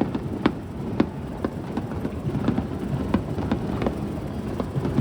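Aerial fireworks bursting in rapid, irregular succession, several sharp bangs a second over a steady low rumble.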